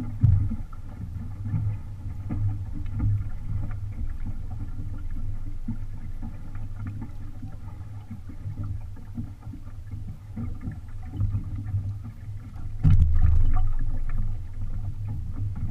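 Wind and water noise aboard a 16-foot camp cruising sailboat under sail: a rough, uneven rumble of wind on the microphone over the water along the hull. A stronger gust comes about thirteen seconds in.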